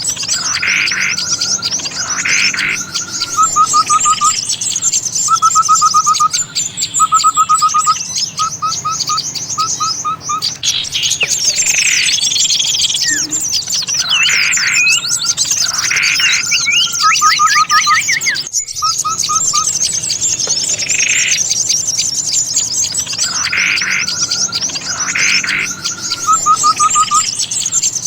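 Bird-lure recording of many small songbirds calling together: dense, fast high-pitched twittering throughout, over it louder swooping calls and repeated short low trills in a pattern that recurs several times. The sound drops out for an instant about two-thirds of the way through, where the recording is joined.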